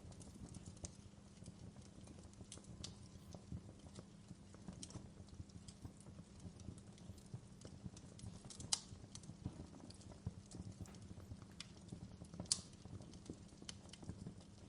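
Wood fire crackling in a fireplace: irregular sharp pops and snaps over a low steady background, with two louder pops about nine and twelve and a half seconds in.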